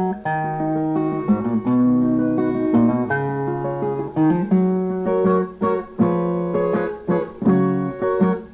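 Brazilian viola playing an instrumental passage: a plucked melody over lower notes, with strummed chords from about halfway through.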